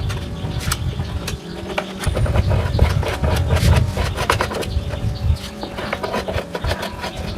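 Irregular knocks, taps and scraping clicks of hand work on metal parts, over a low rumble.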